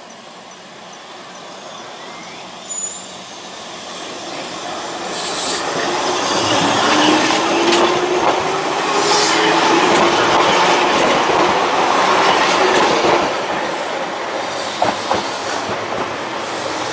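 Eizan Electric Railway train running on the rails, its noise building up over the first several seconds with a faint rising whine, then a few sharp wheel clicks near the end.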